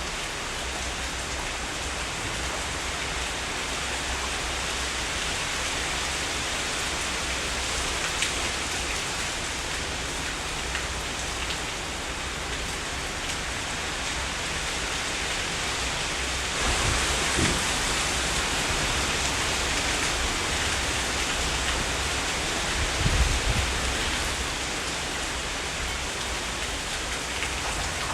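Heavy rain falling steadily. It grows heavier about two-thirds of the way through, with brief low rumbles of thunder.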